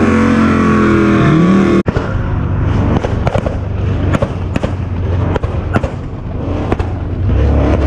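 A car engine revving, then abruptly a string of sharp, irregularly spaced pops and bangs over the engine's low running, like exhaust backfire crackle.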